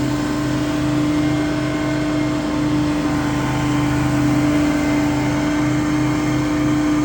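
Scag Windstorm stand-on debris blower running steadily: an engine-and-fan drone held at one constant pitch, with a pulsing low rumble underneath.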